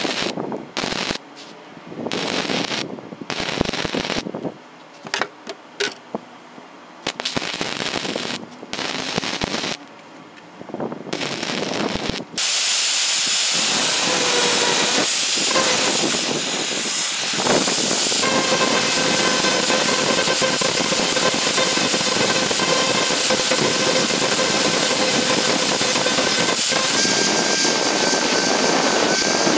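Electric power tool running in short stop-start bursts, then running without a break from about halfway through as a loud steady rush with a constant whine on top.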